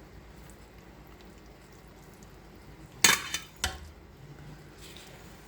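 A utensil clattering against a plate or dish twice, about three seconds in, the first knock the louder; otherwise faint handling sounds.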